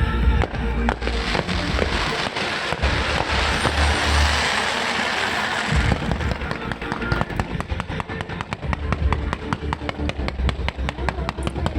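Fireworks going off over loud music with a heavy bass. A dense crackling hiss fills the first half, then gives way about halfway through to a rapid run of sharp pops, several a second.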